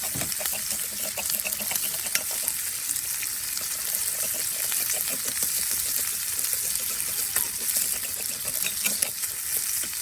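Food sizzling in a cast-iron skillet over a campfire: a steady hiss with frequent small pops and crackles.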